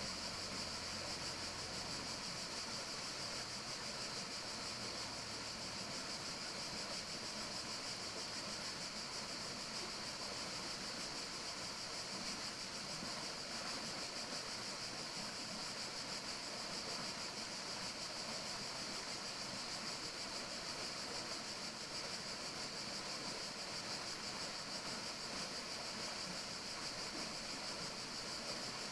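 Steady forest ambience: an even, unbroken hiss, strongest high up, with no distinct calls or events.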